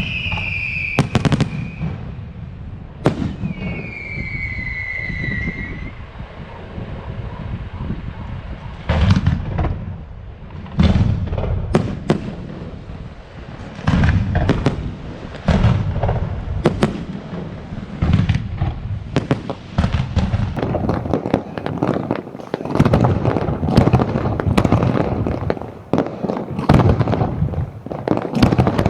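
Aerial fireworks display: many sharp shell bursts going off. Two whistles fall in pitch in the first few seconds, and the bangs and crackle grow denser and more continuous in the last third.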